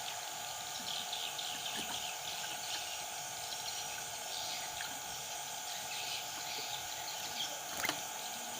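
Scattered short chirps of yellow-vented bulbuls over a steady drone of insects, with one sharp click near the end.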